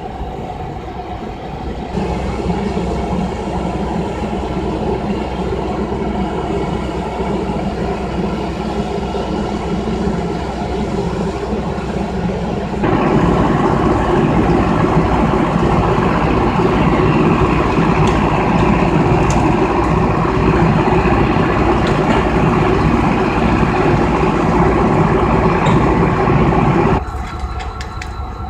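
Train running with a steady engine rumble. It gets abruptly louder about two seconds in and again about halfway through, then drops back near the end.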